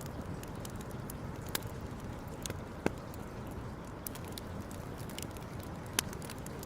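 Wood campfire crackling, with a few sharp, irregular pops from the burning wood over a steady low rushing background.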